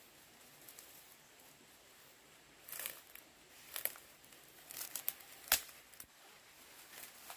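Scattered handling sounds: short rustles and crinkles, with one sharp click about five and a half seconds in.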